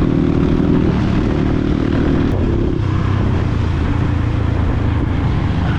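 Dirt bike engine running on a ride, a steady drone whose pitch drops about a second in and again near three seconds, as the throttle eases.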